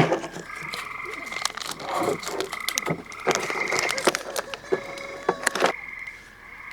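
A steady chorus of frogs calling, overlaid by movie soundtrack audio from a portable speaker: a busy run of clatters, knocks and brief voice-like sounds that cuts off abruptly about five and a half seconds in, leaving only the frogs.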